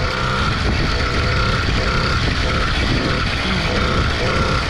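80cc two-stroke motorized-bicycle engine running steadily under throttle while riding, with a dense rush of wind and road noise.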